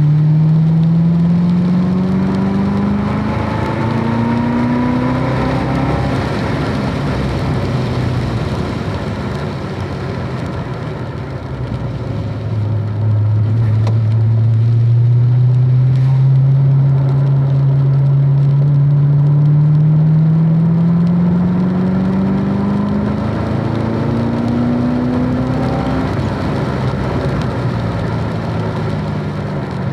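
Car engine heard from inside the car at speed on a wet track, accelerating: its note climbs at the start, sinks into the rushing road noise, then climbs again for about twelve seconds from just under halfway before dropping near the end. Steady rushing road and tyre noise underneath.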